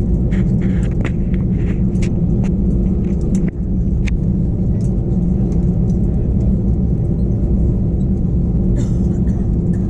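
Airbus A321 cabin noise from a seat behind the wing: the engines' steady low drone and rumble, with a few short clicks and knocks scattered through it.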